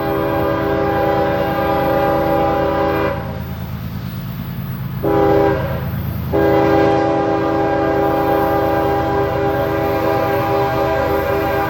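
Train horn sounding close by: a long blast, a short blast, then another long blast, over the steady low rumble of the passing train.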